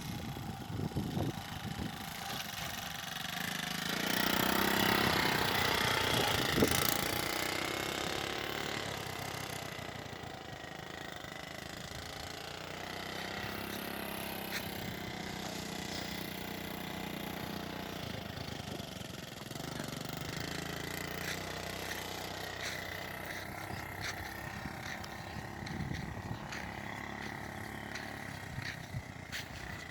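A motorcycle engine running, louder for a few seconds about four seconds in, then running on steadily.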